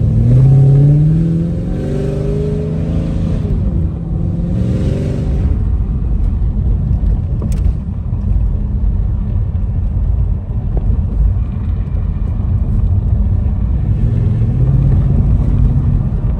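Chevrolet Camaro SS's 6.2-litre LT1 V8 accelerating, its pitch climbing over the first few seconds, then running steadily with a low rumble, with a gentler pull near the end. It sounds healthy on fresh spark plugs and plug wires.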